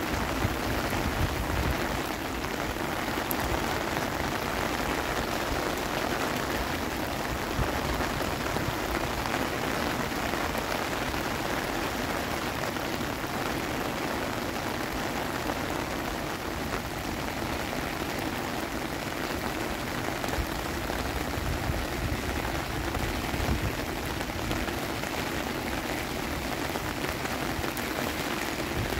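Heavy rain pouring steadily onto wet concrete paths and puddles, an even, unbroken hiss of rainfall.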